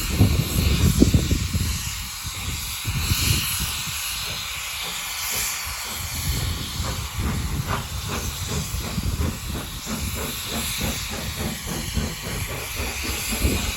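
Steam locomotive hissing steam, over a low rumble. From about six seconds in, a quick regular beat of about four strokes a second joins the hiss.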